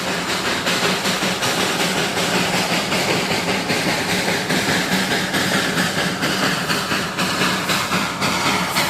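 Darjeeling Himalayan Railway narrow-gauge toy train running, a loud steady clatter with an even beat of about three knocks a second over constant noise.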